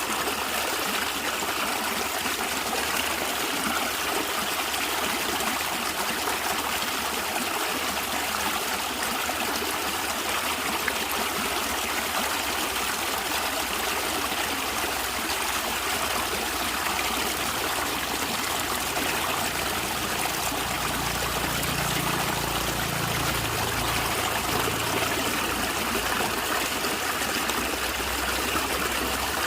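A stream of water running and trickling over stones: a steady, even rush with a gurgle, and a low rumble from about two-thirds of the way through.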